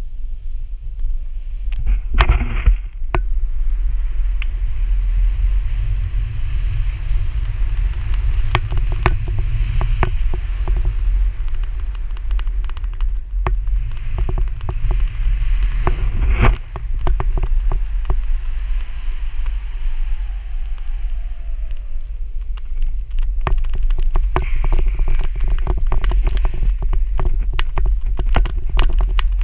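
Wind buffeting the microphone in a steady low rumble, over a rushing hiss of skis running on snow, with scattered sharp knocks and clicks.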